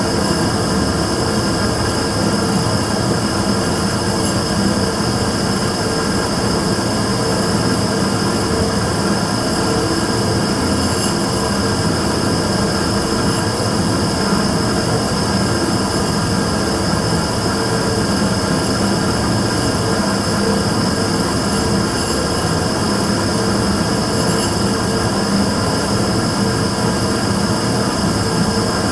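Immersion-tube gas burner running with a steady, unbroken combustion noise and a constant hum under a high whine, the abnormal noise it is recorded for.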